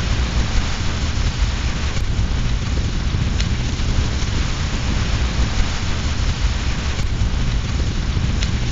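Steady heavy rain with a deep low rumble underneath, and a few faint sharp crackles from a wood fire burning in a fireplace.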